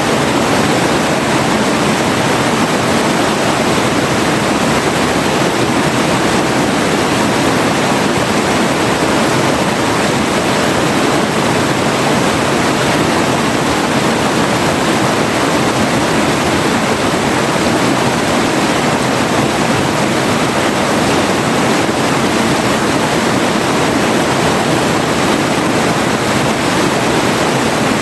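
Forest river flowing, a steady, unbroken rush of water.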